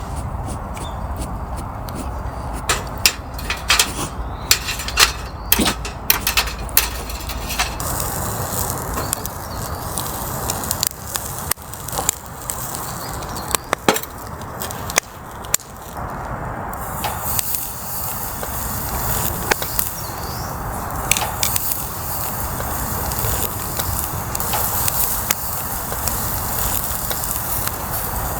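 Wood campfire crackling: a steady hiss of burning with many sharp pops and snaps, thickest in the first third and again around the middle.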